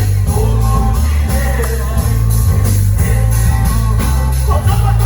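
A live band playing an upbeat worship song, with heavy bass, a steady cymbal beat and guitar.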